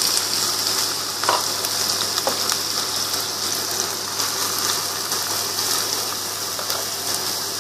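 Chopped onions sizzling steadily in hot oil in a pan, a constant crackling hiss.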